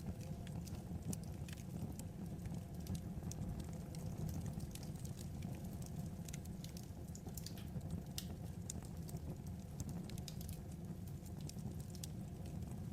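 Wood fire crackling: irregular small snaps and pops over a steady low rumble.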